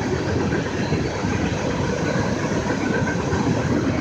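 Steady vehicle noise with no distinct events, a mix of a moving car's road noise and the passing train.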